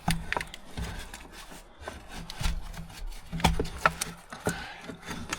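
Scattered clicks, knocks and rubbing of parts being handled and fitted by hand as the air intake is put back on over the engine.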